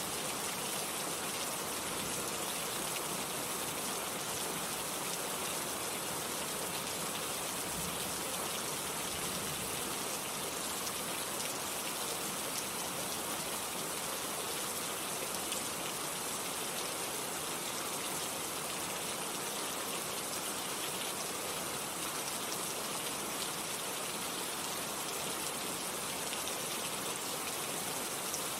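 Steady heavy rain falling, an even hiss with faint scattered drop ticks.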